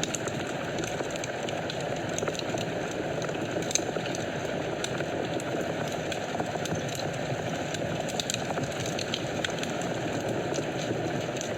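Wood fire burning in a fireplace: a steady low rush of flames with scattered sharp crackles and pops, one louder pop a little under four seconds in.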